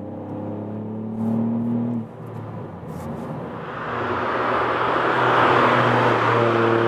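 Ford Fiesta ST's turbocharged 1.5-litre three-cylinder engine accelerating, heard from inside the cabin, rising in pitch before it cuts off about two seconds in. The car is then heard from outside, approaching and driving past, its engine and tyre noise swelling to the loudest point in the second half.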